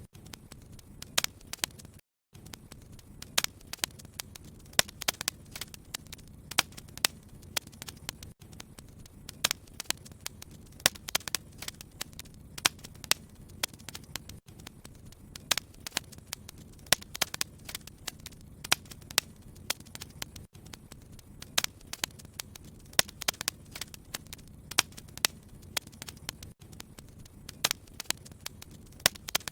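Wood fire in a fireplace crackling, with frequent irregular sharp pops over a low steady rumble. The sound cuts out for a moment about two seconds in.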